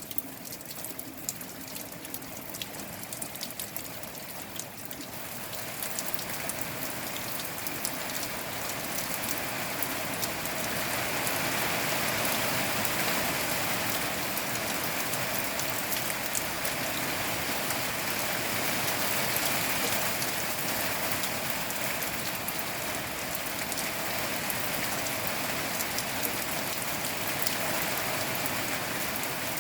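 Rain falling steadily, with separate drops clicking at first, then building into a denser, louder rush over about the first ten seconds and holding there.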